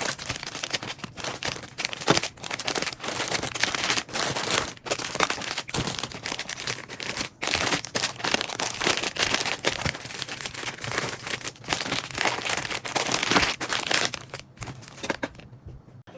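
Plastic crinkling and rustling with many small crackles as packaging or bags are handled, stopping shortly before the end.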